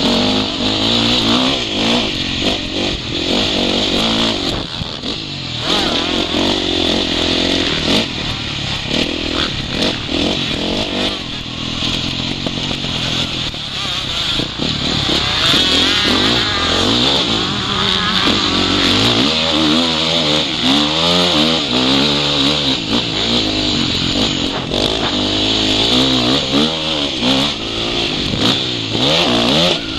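Motocross bike engine being ridden hard, its pitch rising and falling over and over as the throttle is opened and shut. Heard up close through the rider's goggle-mounted camera.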